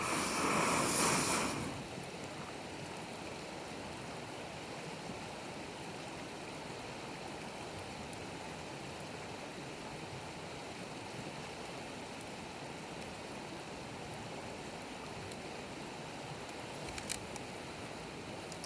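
Campfire burning with a steady hiss and one sharp crackle near the end. A louder rush of noise lasts about a second and a half at the start.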